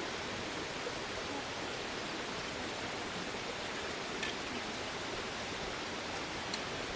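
Steady, even hiss of outdoor background noise, with two faint short clicks, about four and six and a half seconds in.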